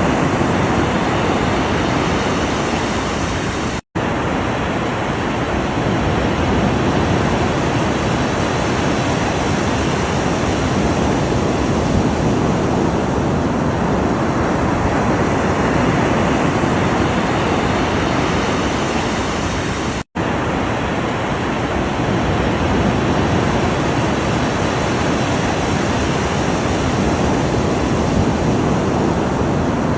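Ocean surf as a steady, dense wash of noise, with no single wave crash standing out. The sound cuts out completely for a split second twice, about four seconds in and again about twenty seconds in.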